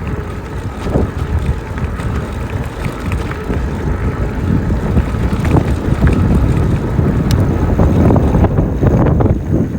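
Wind buffeting the microphone and tyre rumble from an e-bike riding along a trail, a loud, uneven low rumble that swells a little after the middle.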